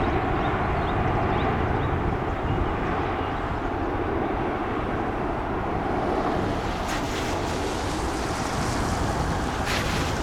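V-22 Osprey tiltrotor's engines and proprotors running, a steady, even rumble with a hum in the middle range, with two short crackles late on.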